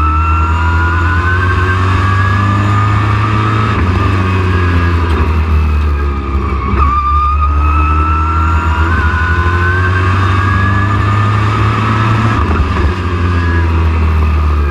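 Super Truck racing engine running hard at speed, a deep rumble under a high whine that climbs steadily in pitch, drops sharply about halfway through as the throttle comes off, then climbs again.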